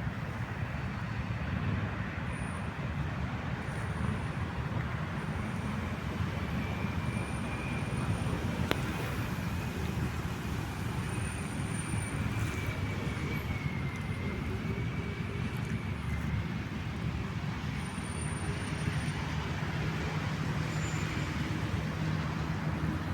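Steady low rumble of distant road traffic, with a faint wavering whine and a few short, thin high peeps on top.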